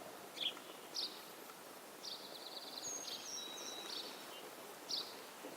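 Small songbirds singing: short high chirps, a rapid trill about two seconds in, and thin high whistles a little later, over a steady hiss of background noise.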